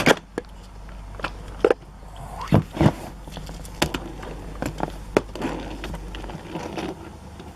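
Toy trucks being picked up and handled, giving a dozen or so scattered clicks and knocks at irregular intervals.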